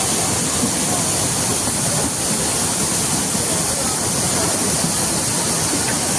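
Floodwater rushing: a loud, steady wash of water noise with no breaks.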